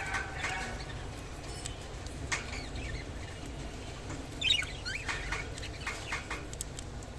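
Budgerigars chirping in short, scattered calls, with a brief cluster of louder chirps about four and a half seconds in, over a steady low hum.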